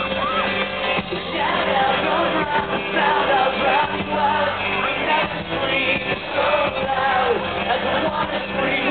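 Rock band playing live with a lead singer's voice over the band, heard from within the audience.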